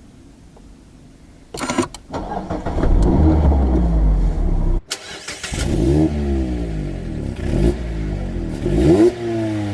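Mazda ND Roadster (MX-5) four-cylinder engine and exhaust: the engine fires up suddenly about a second and a half in and settles to a low rumble. After a break about five seconds in, it revs up through the gears, the pitch climbing and dropping back at each upshift of the manual gearbox.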